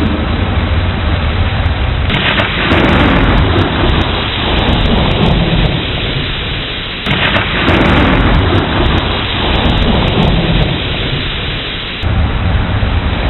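Steady heavy rain with a low rumble of thunder. Two claps break in suddenly, about two seconds in and again about seven seconds in, and each rolls away over several seconds.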